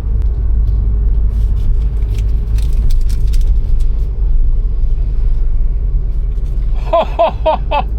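Steady low rumble of a car, with a few light clicks about a third of the way through; a voice starts near the end.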